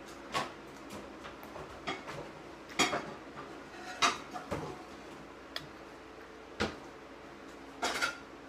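A person chewing food close to the microphone: a handful of short, irregular mouth clicks and smacks, the loudest about three and four seconds in, over a faint steady room hum.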